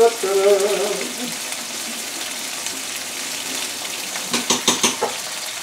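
Diced chicken breast sizzling in olive oil in a frying pan, with a quick run of clinks and scrapes from a spoon stirring it in the pan near the end.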